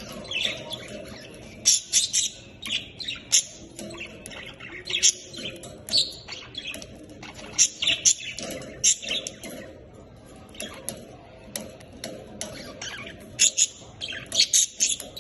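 Budgerigars chirping: many short, sharp calls coming irregularly, thinning out briefly about two-thirds of the way through.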